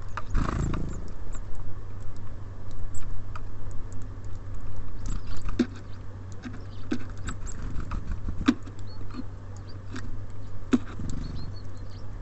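Small birds at a wooden bird feeder: irregular sharp taps and knocks as they peck at seed and hop on the feeder, with a heavier thump about half a second in and a steady low hum underneath.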